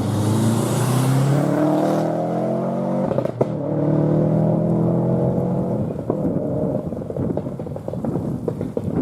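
Four-wheel-drive rally car accelerating hard, engine pitch climbing, with a quick gear change about three and a half seconds in. It then climbs again before falling away with a few sharp cracks near the end.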